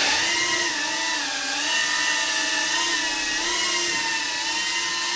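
Tornado 25 2.5-inch FPV quadcopter's brushless motors and propellers whining at a steady hover on a 22.8 V battery, the pitch wavering gently with small throttle changes.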